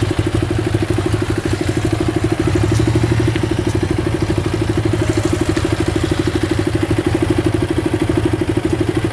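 Motorcycle engine running steadily at low revs, with an even, rapid pulsing beat and no change in pitch.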